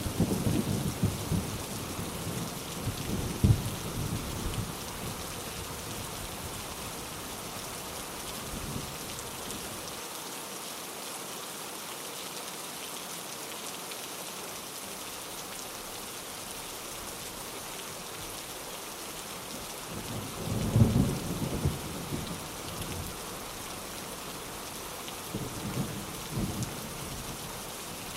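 Steady heavy rain pattering, with low rolls of thunder rumbling in the first few seconds, again about two-thirds of the way through, and once more near the end.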